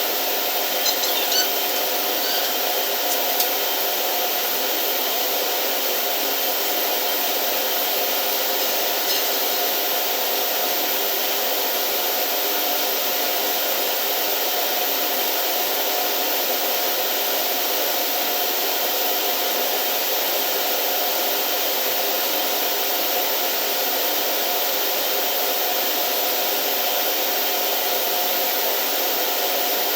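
Steady, even whooshing drone of running industrial machinery, such as a motor or blower, with a few faint steady tones in it. A few short high squeaks come in the first three seconds.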